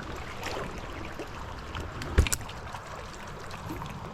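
Stream water rushing and trickling steadily over rocks, with one sharp knock about two seconds in.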